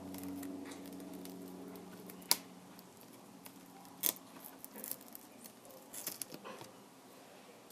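Faint, scattered small clicks and taps from handling a tablet and repair tools during a screen replacement, the sharpest about two seconds and four seconds in, with a cluster around six seconds. A low hum fades out over the first two seconds.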